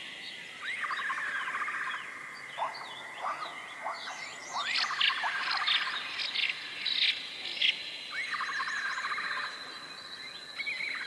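Wild birds singing and chirping: a buzzy trilled phrase that opens with a quick upward sweep comes three times, about every four seconds, among many short high chirps. A thin steady high tone runs underneath.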